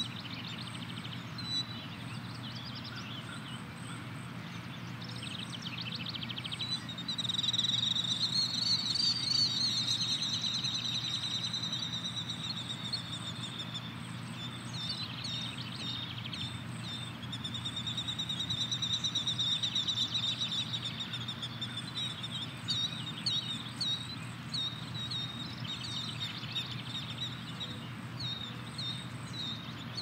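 Songbirds singing over a steady low rural background rumble, with scattered chirps and two longer trilling songs, one about a quarter of the way in and another past the middle, that are the loudest sounds.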